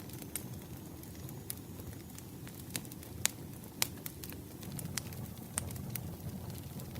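Campfire burning: a steady low rumble with irregular sharp crackles and pops, about a dozen, the loudest a little past three seconds in and just before four seconds.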